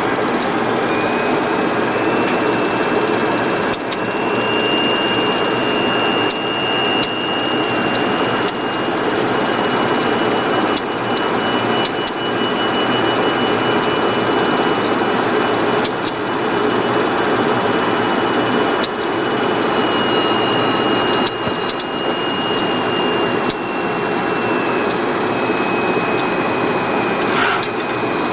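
Steady flight-deck noise of a Boeing 737-200 on final approach in landing configuration, a loud even rush of airflow and engine noise with a fine rattle. A faint steady high-pitched whine sits over it.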